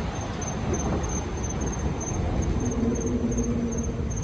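Crickets chirping in a steady high pulse, about three chirps a second, over a low background rumble.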